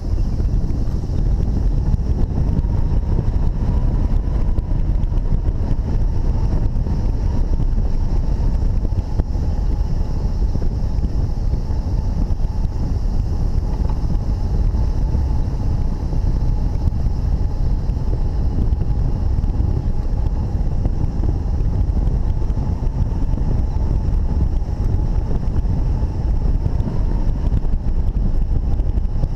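Strong wind rushing and buffeting over the camera microphone, a loud steady low rumble, with a faint steady high whine running underneath.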